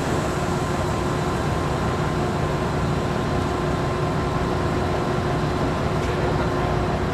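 Steady hum of an idling vehicle, a low engine rumble with a few steady whining tones over it, unchanging throughout.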